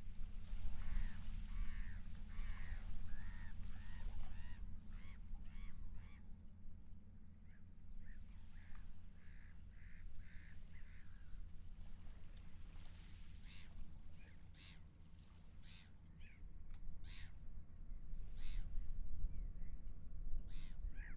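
Gulls calling in repeated series of short cries, thicker in the first half and sparser later, over a steady low rumble.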